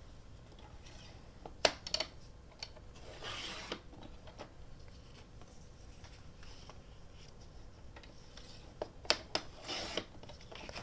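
Paper being trimmed and handled: two pairs of sharp clicks, each followed by a short rubbing, scraping stroke, first about two seconds in and again near the end.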